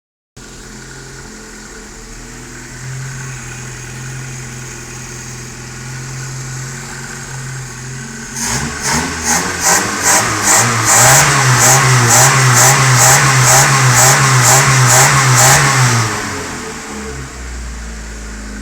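Fiat 128A000 1116 cc SOHC inline-four engine with a Weber carburettor idling steadily, then revved hard about halfway through in quick repeated throttle pulses for about seven seconds, before dropping back to idle near the end.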